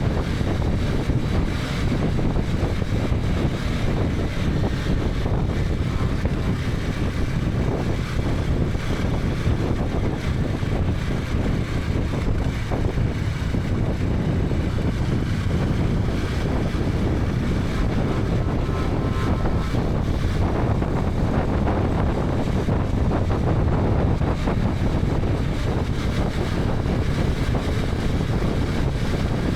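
KTM 250 Adventure's single-cylinder engine running steadily at riding speed, under a constant rush of wind over the camera microphone.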